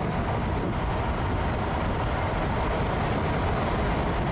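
Steady engine and road noise inside the cab of a 26-foot U-Haul moving truck driving down the road.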